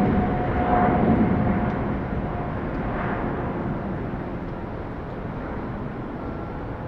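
Jet noise from a Boeing 777-300ER's GE90-115B turbofans: a broad rumble with a steady whine, slowly fading as the aircraft moves away.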